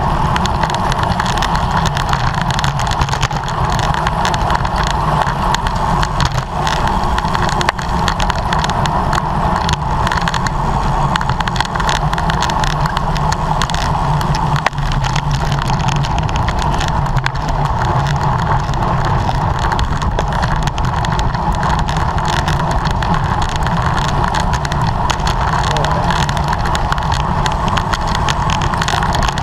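Steady rushing noise of a racing bicycle ridden at speed: wind and tyre noise on the road, unbroken throughout.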